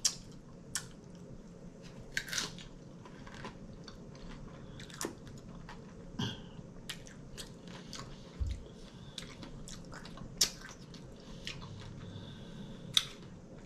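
A person biting and chewing a tortilla chip loaded with taco salad, close to the microphone, with irregular sharp crunches and wet mouth sounds.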